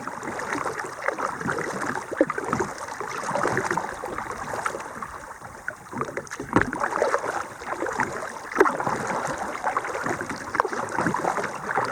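Kayak paddle strokes on calm water: the blades dipping in and splashing in an uneven run, with water dripping off them.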